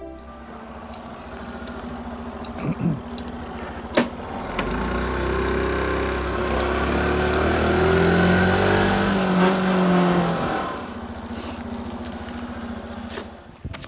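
Small delivery motorcycle's engine running, picking up speed and growing louder about four and a half seconds in, then easing off past the ten-second mark as the bike slows. A sharp click about four seconds in and light regular ticks over the first half.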